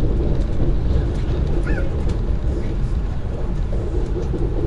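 Steady low rumble of a Lastochka electric train running, heard from inside the passenger car.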